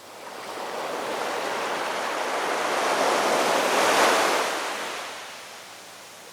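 Ocean wave washing onto the shore: the surf noise swells up from the start, peaks about four seconds in, then falls back to a low steady wash.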